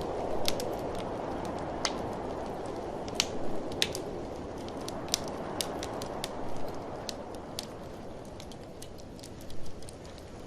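Wood fire crackling, with irregular sharp pops and snaps, over a steady rushing blizzard wind.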